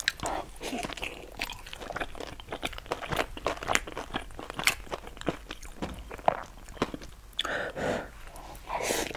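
Close-miked chewing of a mouthful of rice and food: many short, irregular wet clicks and smacks of the mouth.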